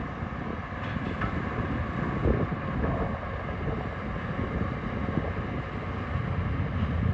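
Heavy diesel earthmoving machine running under load: a steady deep engine rumble with some wind noise on the microphone.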